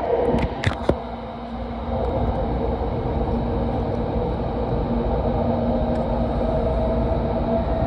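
Inside a Sanyo Shinkansen car running at speed through a tunnel: a steady low rumble with a faint hum, and a few sharp clicks in the first second. The rumble grows a little louder about two seconds in.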